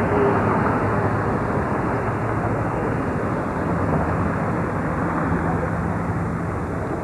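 Steady city din at night: a continuous traffic rumble mixed with a murmur of voices, with a faint engine hum in the middle.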